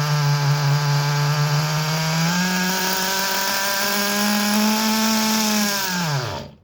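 OS Engines 12CVR small two-stroke nitro glow engine of an RC touring car running at high revs. Its pitch steps up a little over two seconds in and holds, then falls off steeply as the engine winds down and stops near the end.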